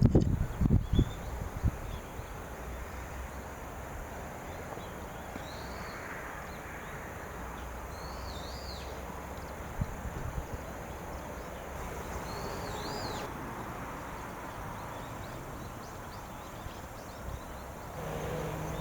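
Outdoor ambience: a steady background hiss with a bird giving short arching calls several times. A few low thumps come in the first second or two.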